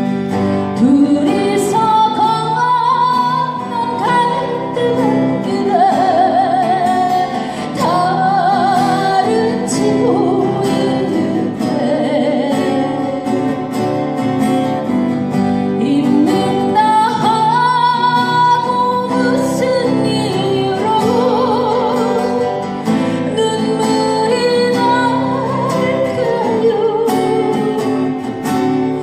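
A woman singing a Korean ballad with vibrato, over guitar accompaniment.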